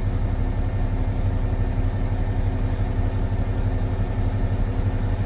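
Volvo A25F articulated dump truck's diesel engine running steadily at low speed as the truck creeps forward in first gear.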